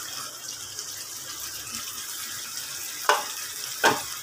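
Marinated chicken sizzling in hot mustard oil and masala in a kadai, a steady hiss. Two sharp knocks come about three seconds in and again just before the end.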